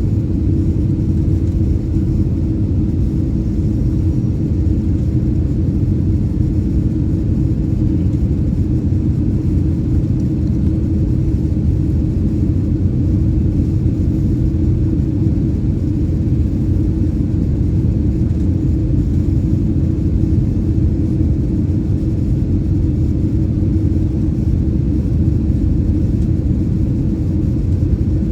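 Airbus A319-115 airliner cabin noise in flight: the steady low rumble of the engines and airflow, with a constant hum and no changes.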